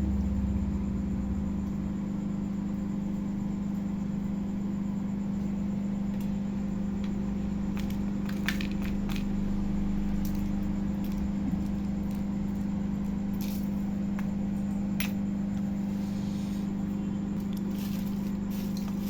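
A steady low hum, with a few light clicks and clinks about halfway through, like a glass tray or dish being handled.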